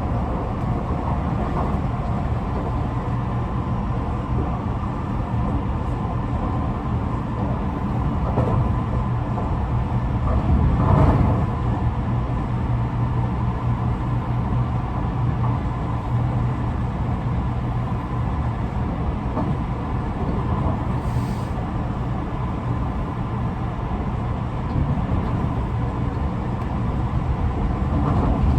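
Running noise inside a Tobu 50090 series electric train car at steady speed: a constant rumble of wheels on rail with a steady hum. A louder thump comes about eleven seconds in. The uploader finds this car's traction motors slightly unusual in sound, possibly a different type from the rest of the set.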